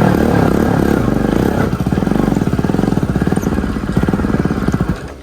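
Bajaj Pulsar NS200's single-cylinder engine running under throttle on the move, a rapid train of firing pulses that cuts back abruptly near the end.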